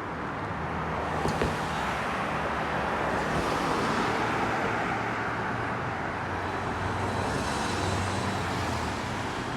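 Car driving on a road: a steady low engine hum with tyre and road noise, growing a little louder twice.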